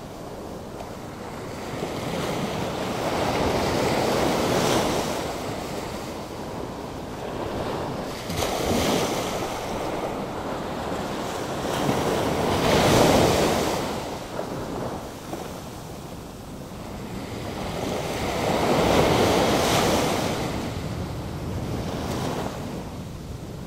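Atlantic Ocean surf churned up by a hurricane: waves break and wash ashore in four slow surges, each swelling to a rushing peak and then fading back.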